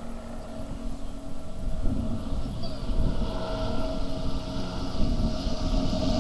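Aircraft engine running with a steady drone, its hiss growing louder through the second half as the aircraft approaches.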